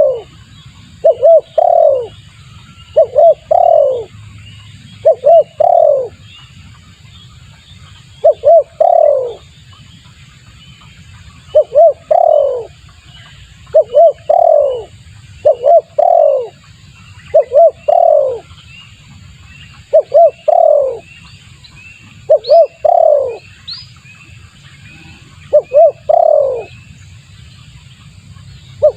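Spotted dove (tekukur) cooing its lure call: phrases of a couple of quick notes and a longer falling coo, repeated every two to three seconds. Faint chirps of small birds sound higher up, over a low steady rumble.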